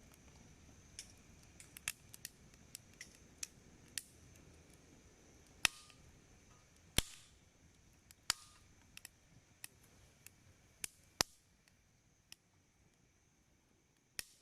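Wood fire crackling and popping: irregular sharp snaps of burning wood, with a handful of louder pops, one about seven seconds in trailing a brief hiss.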